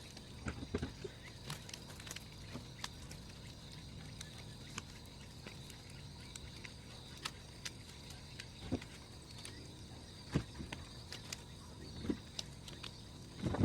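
Large wood bonfire crackling, with irregular sharp pops and a few heavier snaps from the burning firewood. A steady high buzz runs underneath.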